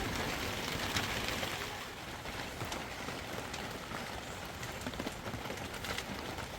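Storm noise: a steady rushing hiss with wind buffeting the microphone in an irregular low rumble, and scattered small ticks.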